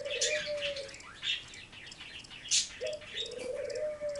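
A bird cooing twice, each call a short note then a longer held low note; one call ends about a second in and the next begins about three seconds in. Faint high chirps and clicks are scattered among the calls.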